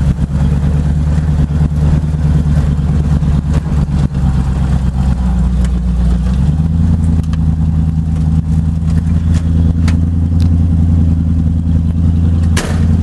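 Holden 308 V8 idling steadily, heard from inside the car's cabin; its idle steps up slightly about six and a half seconds in. A sharp knock sounds near the end.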